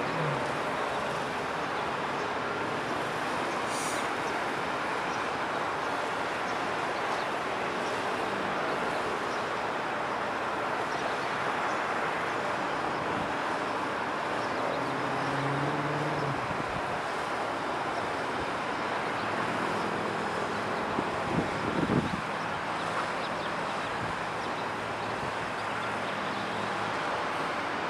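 Steady, distant engine noise from a Dassault Falcon 2000 twin-engine business jet, heard as an even rumble with hiss. Brief knocks come around three-quarters of the way through.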